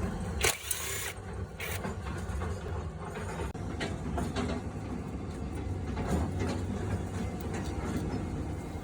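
Scattered mechanical clicks and clatter of hand work on a diesel truck, over a steady low hum.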